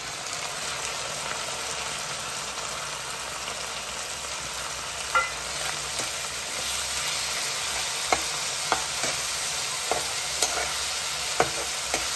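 Ginger-garlic-onion paste and onions sizzling steadily in hot oil in a nonstick kadai while being stirred with a spatula. Several sharp clicks of the spatula knocking against the pan in the second half.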